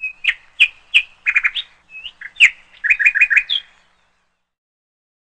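Bird chirping: a string of short, sharp chirps, single notes and quick runs of three or four, stopping about three and a half seconds in.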